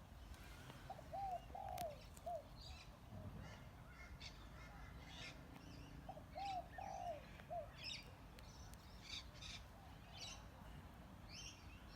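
Birds calling faintly: a dove cooing a short low phrase of about four notes, twice, over scattered high chirps from small birds.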